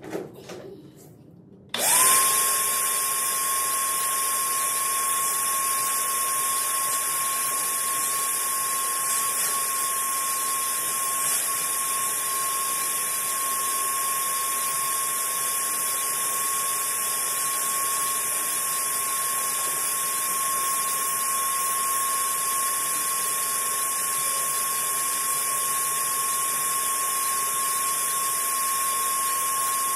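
A power tool starts about two seconds in and runs steadily at constant speed, a single unchanging whine over a bright hiss.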